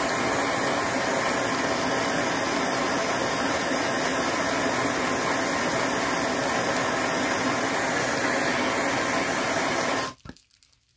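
Steady rushing blast of a heat tool melting pine pitch glue, cutting off suddenly about ten seconds in.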